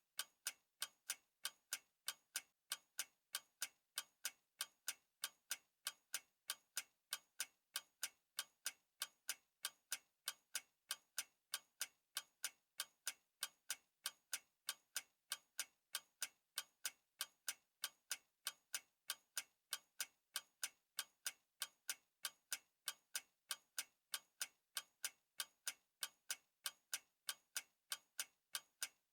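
Clock ticking steadily, a fast, even run of sharp ticks with no change in pace.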